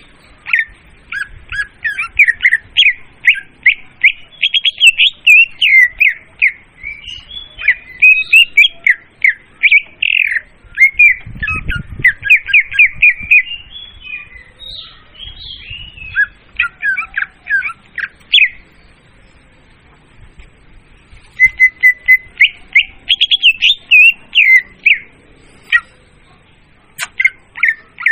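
Murai daun (leafbird) lure song: a loud, fast run of varied chirps, trills and short whistles in phrases, with pauses of a couple of seconds about two-thirds of the way in and again near the end.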